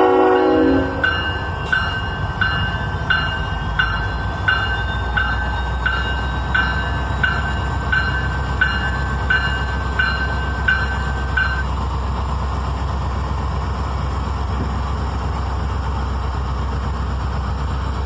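Diesel freight locomotive sounds a short horn blast at the start. A bell then rings in even strikes, about one and a half a second, for roughly ten seconds, over the steady low rumble of the locomotive engines.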